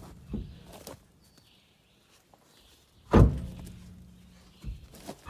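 Heavy truck wheel being handled after removal: a few light knocks, then one loud heavy thud about three seconds in, followed by a low ringing hum that fades over a second or so.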